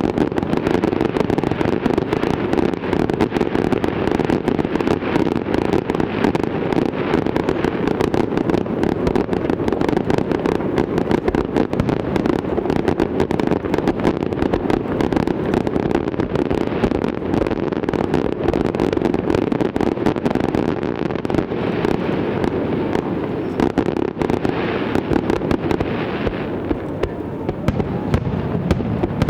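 Fireworks display: a dense, unbroken barrage of bursts and crackle.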